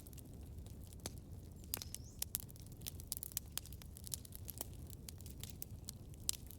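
Campfire crackling: irregular sharp pops and snaps of burning wood, several a second and thicker in the middle, over a low steady rumble.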